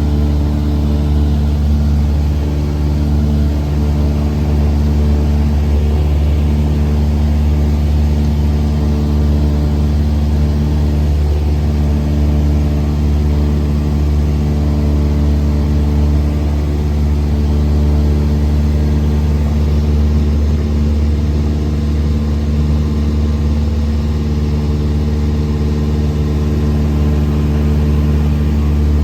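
Light airplane's piston engine and propeller running steadily at cruise, a constant drone with a steady low hum, heard from inside the cabin.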